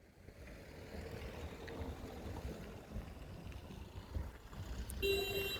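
Road traffic rumble as a vehicle goes by, with a short vehicle horn honk about five seconds in.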